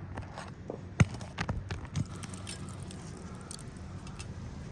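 A few scattered sharp knocks and taps on an asphalt-shingle roof during shingle removal work, the loudest about a second in.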